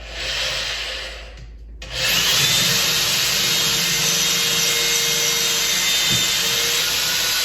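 Power drill boring into a wooden wall stud: a short burst, then a long steady run at full speed from about two seconds in.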